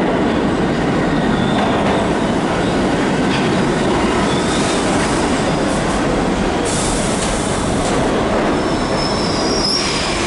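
New York City subway D train heard from inside the car while running on the track: a steady loud rumble of wheels and car. Brief high-pitched wheel squeals come through a couple of times, with a longer squeal near the end.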